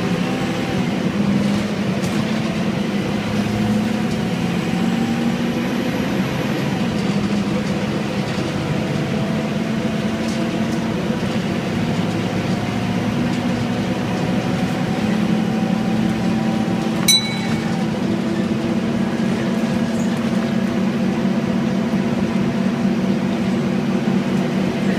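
Scania N230UD double-decker bus's Euro IV diesel engine and ZF six-speed gearbox running as the bus drives, a steady drone whose pitch drifts gently up and down with speed. A single sharp click with a brief ring comes about two-thirds of the way through.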